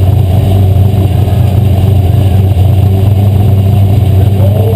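Asphalt modified race car's V8 engine running hard and steady at race speed, loud and unbroken with an even pitch.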